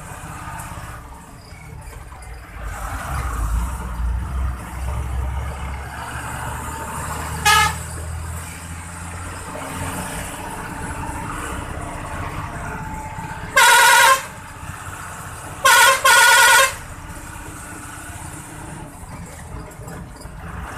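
Tata 4018 truck's diesel engine running, heard from inside the cab, with the horn sounding: a short toot about seven seconds in, a longer blast near fourteen seconds, and two more blasts close together soon after. The horn blasts are the loudest sounds.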